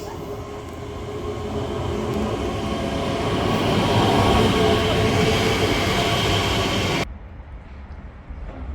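Train passing on the line, growing steadily louder over the first few seconds, then cutting off suddenly about seven seconds in.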